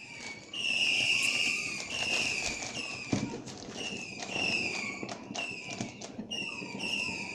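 Fireworks going off: a rapid string of short whistles, each falling slightly in pitch, over scattered bangs and crackles.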